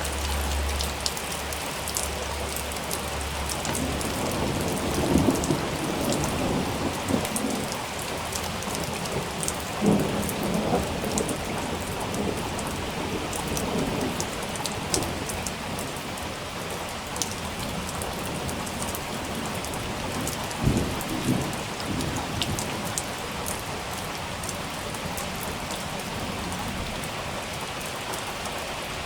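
Steady heavy rain with several low rolls of thunder swelling and fading. The louder rumbles come about five, ten and twenty-one seconds in.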